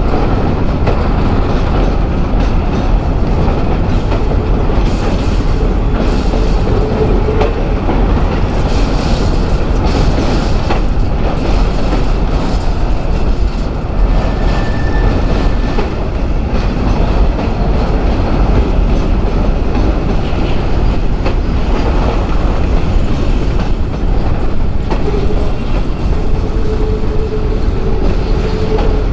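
Freight train cars rolling past, a steady loud rumble of wheels on rail with clickety-clack and a few brief faint squealing tones.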